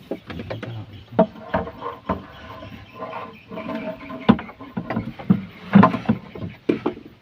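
Irregular knocks and clatter of things being handled in a small boat, with the sharpest knocks about four and six seconds in.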